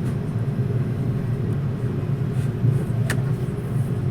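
Airbus A330-300 cabin noise: the jet engines and airframe give a steady low rumble with a hum, heard from inside the passenger cabin. A single sharp click about three seconds in.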